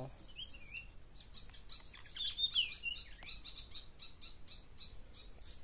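Birds chirping: a series of quick, high chirps with a louder sweeping call about two and a half seconds in.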